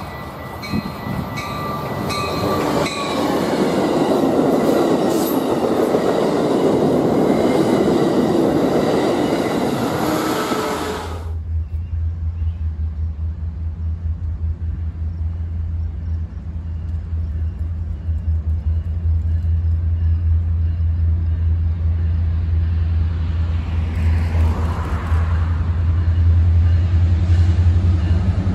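Metra commuter train with a diesel locomotive approaching and running past on the track, its noise building to loud over the first few seconds. About a third of the way through, the sound cuts abruptly to a steady low rumble as a freight train led by diesel locomotives approaches.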